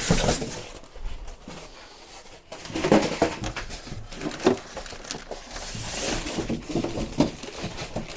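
A cardboard box and its packaging being handled: irregular rustling, scraping and knocks, with a few short squeaks.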